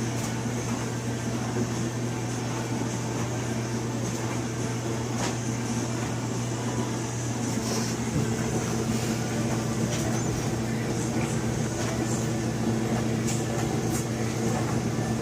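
Dishwasher running: a steady low motor hum under a constant hiss, with a few faint clicks.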